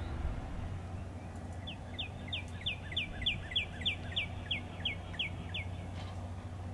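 A songbird singing a run of about a dozen quick notes, each sliding down in pitch, about three a second.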